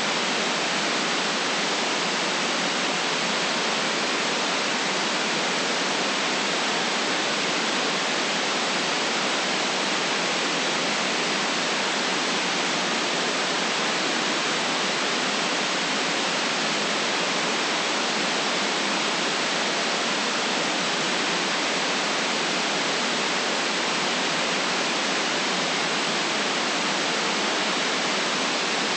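Steady white noise: an even, unchanging hiss with no deep rumble and no separate events.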